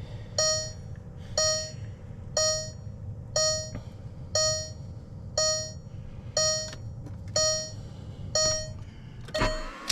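Dashboard warning chime of a 2002 VW Beetle TDI beeping about once a second, ignition on while the glow plugs heat for a cold start. Near the end the starter begins cranking the diesel.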